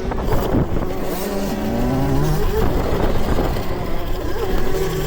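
Electric dirt bike ridden over a rough motocross track: constant rumble of wind and bumps, with a motor note that rises in pitch about a second in.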